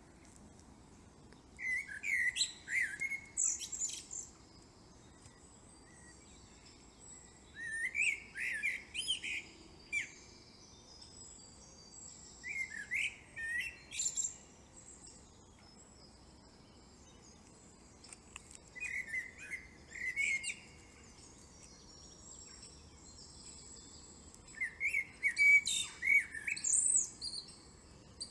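Birdsong: a songbird repeating a short phrase of quick rising and falling notes five times, about every five to six seconds, over a faint steady hiss.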